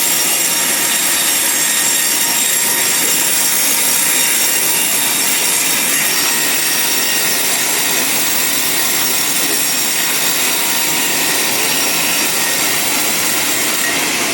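A band sawmill cutting lengthwise through a large log: a loud, continuous, even sawing noise with thin steady high tones and no breaks.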